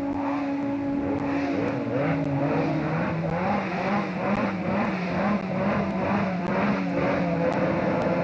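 Rally car engine running under load, its pitch dropping about two seconds in and then wavering up and down.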